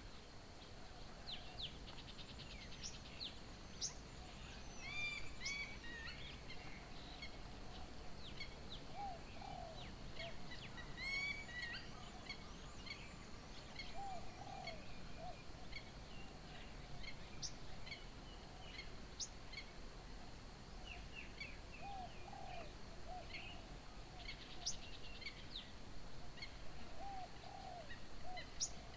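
Several birds calling and chirping together, with quick high chirps and trills throughout. A lower call of two or three short notes comes back four times.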